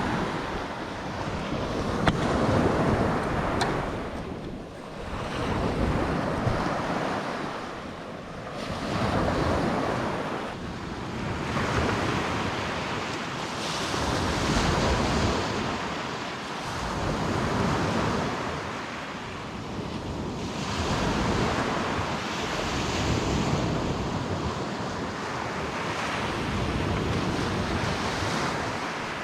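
Surf breaking on a sandy beach, the wash swelling and fading about every three seconds, with wind buffeting the microphone.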